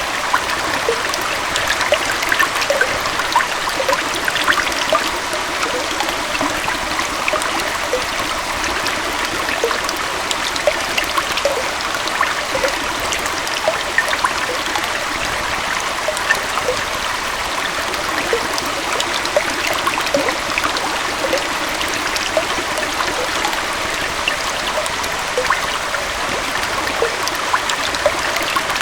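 Small forest waterfall and stream flowing steadily, an even rush of water with frequent little splashes and drips.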